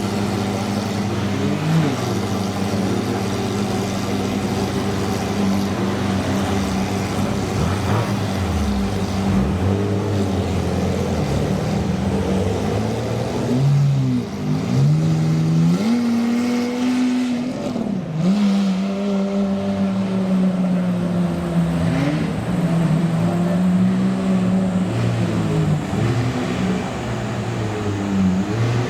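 Several supercar engines running at once: a steady idle hum with other engines' pitch gliding up and down as they rev and pull past, the busiest stretch around the middle.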